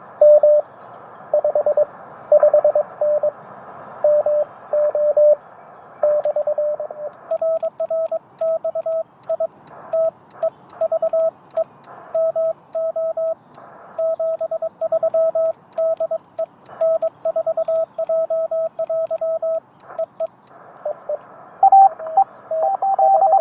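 Morse code (CW) on a Yaesu FT-891 ham transceiver: single keyed tones beeping out dots and dashes over band hiss. Over the middle stretch, faint clicks come with the keying. Near the end, a signal at a slightly higher pitch comes in.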